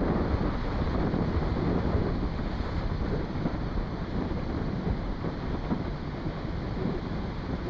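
Strong wind blowing across the microphone: a steady low noise, heaviest in the bass, that swells and dips.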